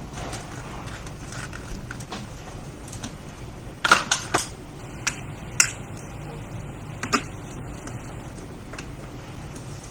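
A few sharp clicks and taps of small hard objects being handled on a repair bench, a quick cluster about four seconds in and single ones later, over a steady low hum.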